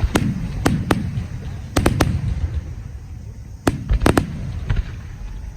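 Fireworks shells bursting overhead in quick clusters of sharp bangs, each group trailing off in a low rumble.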